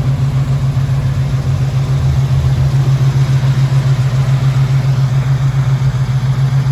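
A 1975 Chevrolet Caprice's V8 idling: a steady low hum with a fast, even pulse.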